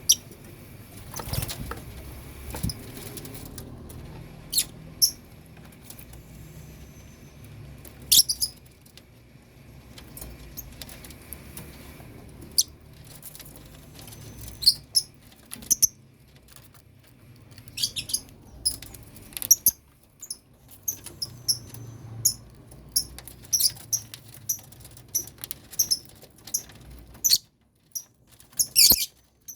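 Lovebirds in a colony cage giving short, sharp, high-pitched chirps, a few at a time at first and coming thick and fast in the second half.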